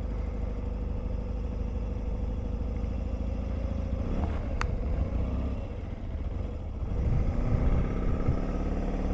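Motorcycle engine idling steadily, with a short clunk about four seconds in; near the end the engine note rises and gets louder as the bike gets under way.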